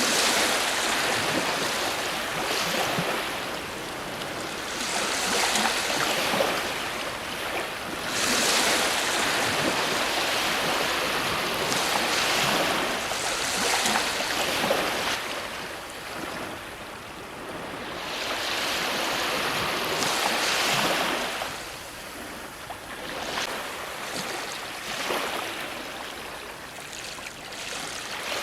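Ocean waves breaking on a shore, one after another. Each wash of surf swells and fades over a few seconds.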